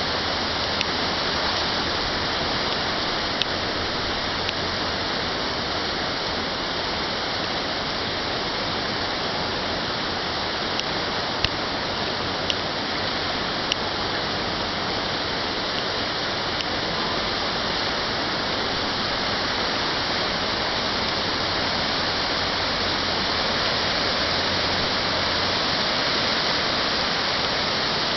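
Fast-flowing floodwater rushing steadily, with a few short clicks partway through.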